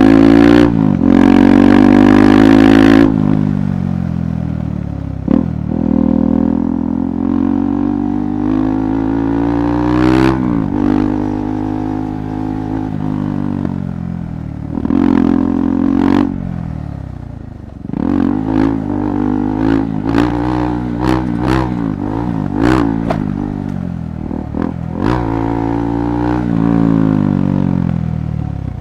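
KTM 390 Adventure's single-cylinder engine on a rough off-road trail, its pitch rising and falling again and again as the throttle is opened and closed. Scattered sharp clattering knocks come from the bike over the rough ground.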